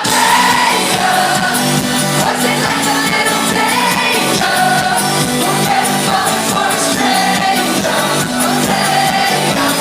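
Live pop music from a concert: a woman singing over a band with a steady beat.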